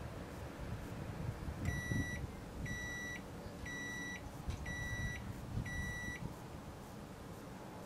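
Microwave oven beeping five times, about one beep a second, each about half a second long: the end-of-cycle signal that the cooking time has run out.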